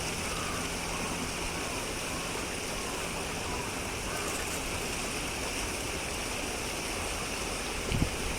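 Steady rushing noise, with a brief low thump near the end.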